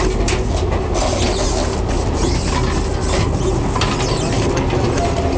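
El Chepe passenger train running, heard in the vestibule between two cars: a steady low rumble with a dense clatter of metal clicks and knocks from the car connection.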